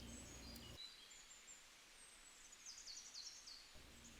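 Faint birdsong: a few thin high whistles, then a quick run of short high chirps partway through, over a soft hiss.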